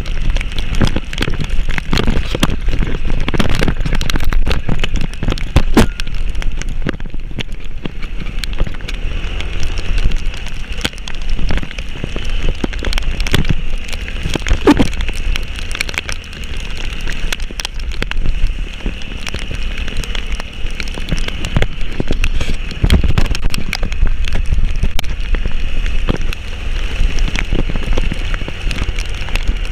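Heavy rain falling, with dense sharp drop impacts close to the microphone over a steady low rumble.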